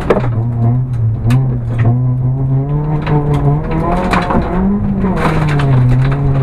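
Ford Fiesta rally car's engine heard from inside the cabin, pulling hard at stage speed, its revs mostly held, then rising and dropping back a little past the middle. Scattered sharp knocks and cracks cut through the engine.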